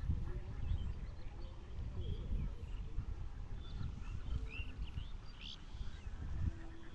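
Birds chirping in short, quick rising and falling calls, most of them a little past halfway, over a steady low rumble.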